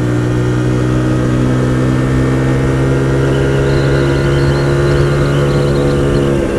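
Hyosung GT125R's 125 cc V-twin engine running at steady revs under way, its note holding level throughout.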